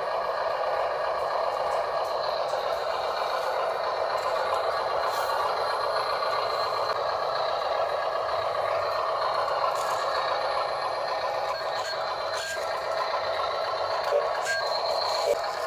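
Radio-controlled toy dump truck's small electric motor and plastic gearbox running, a steady whine with a few short clicks.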